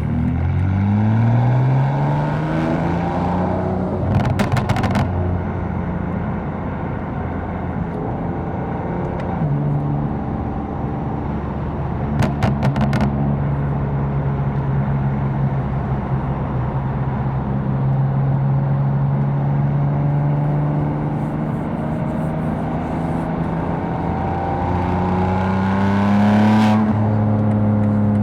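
Tuned BMW M4's twin-turbo inline-six accelerating hard, its note rising steeply over the first few seconds, then cruising at steady revs. It rises again briefly near the end. Short bursts of sharp clicks or crackles come about four seconds in and again about twelve seconds in.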